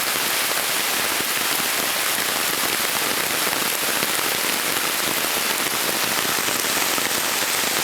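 Heavy tropical rain falling steadily on rainforest foliage, a dense even hiss of countless drops.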